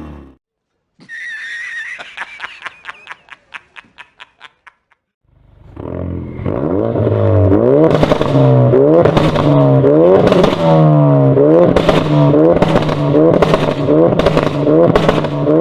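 A sports car's engine and exhaust blipped over and over, the revs rising and dropping about once a second. Before it, after a brief silence, there is a high tone with a run of clicks that slow down and fade out.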